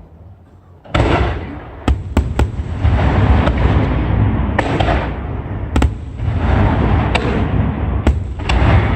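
Fireworks display going off: after a short lull, a sudden burst about a second in, then continuous deep booming and crackling with sharp, single bangs cutting through every second or so.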